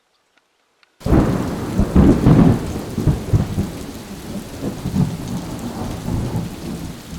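Thunder rumbling over steady rain, cutting in suddenly after a second of silence, loudest about two seconds in, then slowly dying away.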